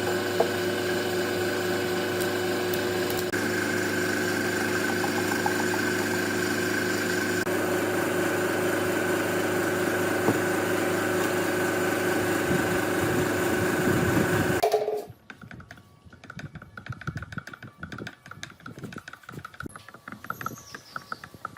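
An electric power tool's motor running steadily at a constant pitch, then switched off and cutting out sharply about 15 seconds in, followed by faint rapid clicking and chirping.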